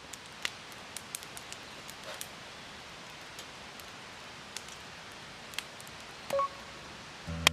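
A steady hiss with scattered sharp crackles and ticks at irregular intervals. Music begins near the end.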